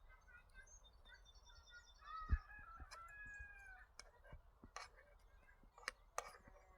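Faint bird calls: small high chirps and a longer pitched call about two seconds in that lasts over a second, with scattered light clicks and knocks and one dull thump.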